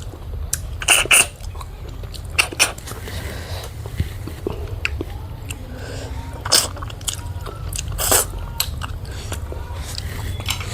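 A person chewing food close to the microphone, with wet smacking and a few sharp crunches and clicks spread through, over a steady low hum.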